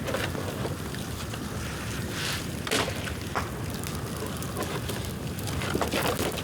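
Bonfire of dry dead bamboo burning, with a steady low rush of flame and sharp crackles and snaps a few times.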